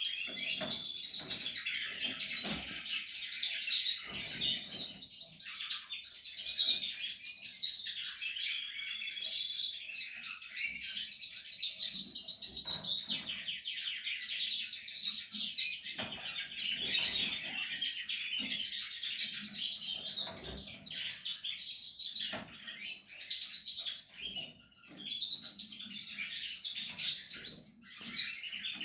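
Canaries singing and chirping without pause in fast, rolling trills, with scattered short clicks and knocks of birds moving.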